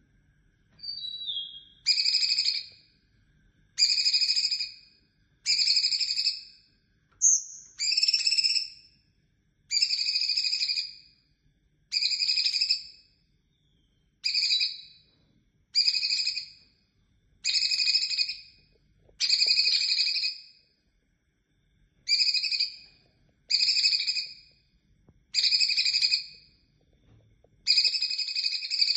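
Cucak cungkok calling the same note over and over, about fifteen calls of just under a second each, spaced roughly two seconds apart.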